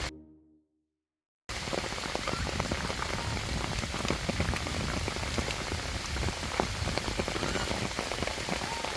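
Steady rain falling, with many small drop ticks, starting suddenly about a second and a half in after a short silence.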